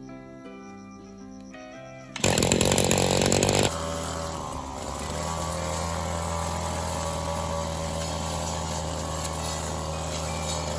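Background music, then about two seconds in a petrol brush cutter cuts in suddenly at high speed for a second and a half before settling to a steady, lower-speed run.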